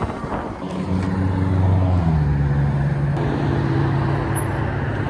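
An engine running steadily close by, with street traffic noise; its pitch shifts a little about two seconds in.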